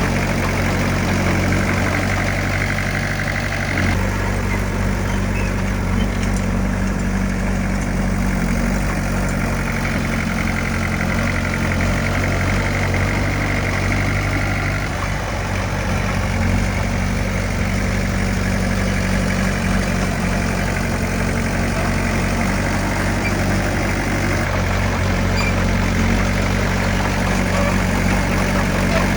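Heavy diesel engine of earthmoving equipment running steadily, its low note shifting a few times.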